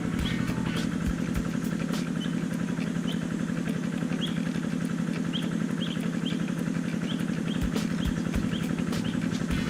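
A steady low motor hum, like an engine idling, runs throughout, with a small bird giving short rising chirps about once a second and a few light clicks.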